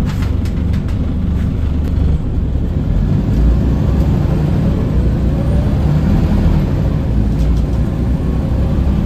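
Scania L94UB city bus under way, heard from aboard: a steady low engine rumble with a faint whine that rises in pitch from about three seconds in. A few light rattles come near the start.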